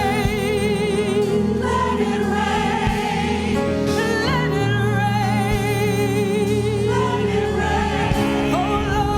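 Gospel worship song: a choir and singers hold long notes with vibrato over a steady bass.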